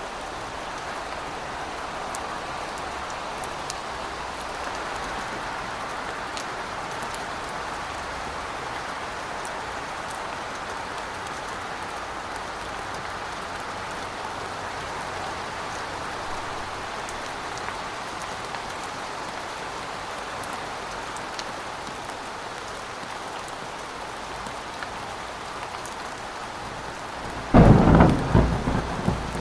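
Steady rain hissing, then near the end a sudden loud clap of thunder with a deep rumble.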